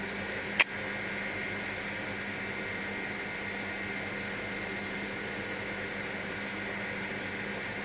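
Helicopter in flight: a steady, even cabin hum with a few held tones, and a single short click about half a second in.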